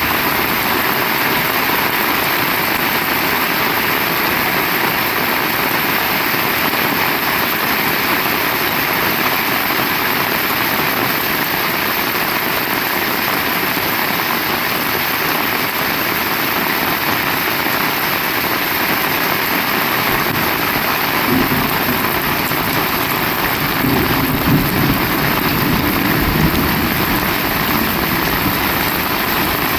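Heavy rain falling steadily as a dense, even hiss. About two-thirds of the way through, a low rumble swells under the rain for several seconds, then fades.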